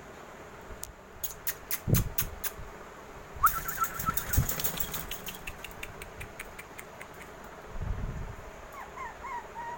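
Pomeranian puppies: a run of sharp clicks and taps, then a short high whine about three and a half seconds in, followed by more clicking, with a few dull thumps. Near the end, wavering high whimpers begin.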